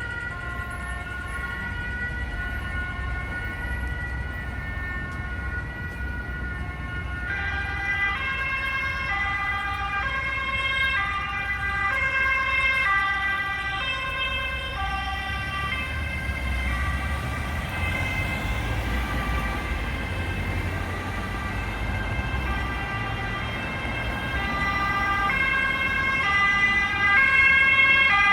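Swedish emergency vehicle sirens sounding, each stepping back and forth between two pitches about once a second; a second siren joins about seven seconds in, over the low rumble of the vehicles' engines. The sirens get louder near the end.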